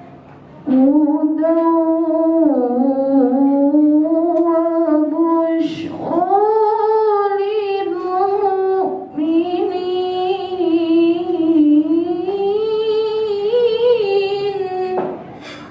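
A woman chanting Quran recitation (tilawah) in long, ornamented held phrases, breaking for a breath about six seconds in and briefly again near nine seconds.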